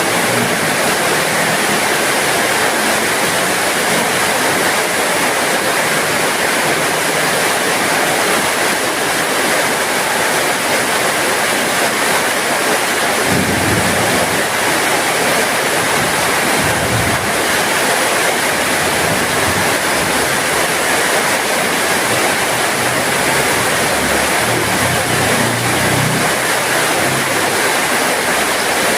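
Heavy rain falling steadily, a dense, even hiss with no let-up. A few brief low rumbles show underneath it about halfway through and again later.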